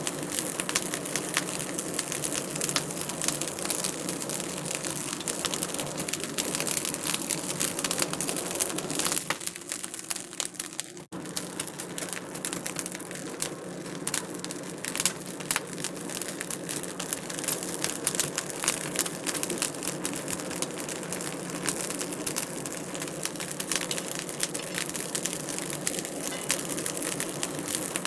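Wood fire crackling and popping steadily in a fireplace, a dense run of sharp snaps over a soft hiss, briefly dropping out about a third of the way in.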